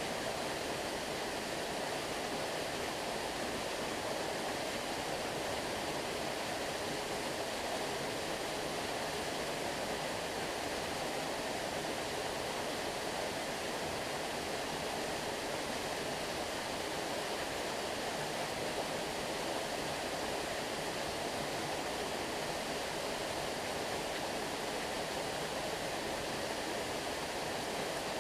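A stream's flowing water: a steady, even rushing with no breaks or changes.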